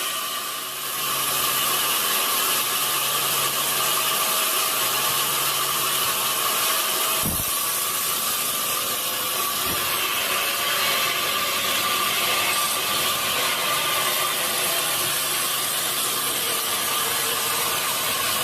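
Sawmill saw cutting steadily through a large redwood log with an even, high-pitched whine, and two dull knocks about seven and ten seconds in.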